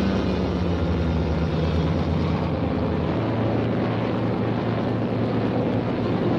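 Engine of a propeller plane or motorboat running steadily: a low, continuous drone whose pitch sags slightly in the first couple of seconds.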